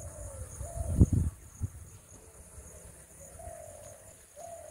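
A bird calling a few times in short, low notes over a steady, evenly pulsing high-pitched insect chirr. Two dull bumps on the microphone about a second in.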